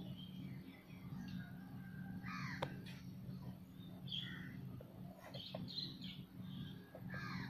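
Birds calling here and there, short calls spaced a second or two apart, over a steady low hum, with one sharp click about two and a half seconds in.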